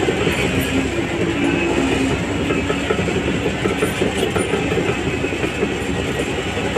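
Shantui DH17C3 crawler bulldozer working, its diesel engine running steadily under the clatter of its steel tracks.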